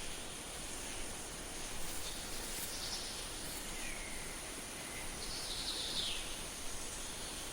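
Natural ambience: a steady high insect whine over background hiss, with a few short bird calls. Falling whistles come about three seconds in and again near six seconds.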